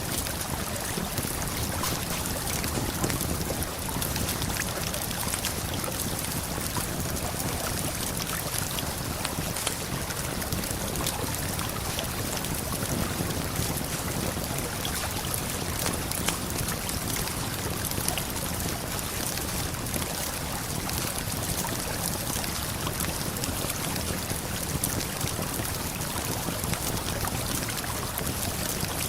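Steady rush of a waterfall and flowing river, with scattered light crackles of a campfire.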